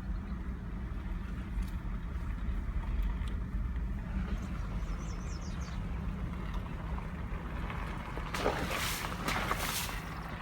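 Jeep engine running steadily at low speed, a low hum, with a loud rushing hiss for about a second and a half near the end.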